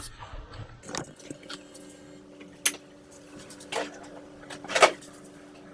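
Workshop handling sounds: four or five separate sharp clicks and knocks of tools or parts being handled, over a faint steady hum.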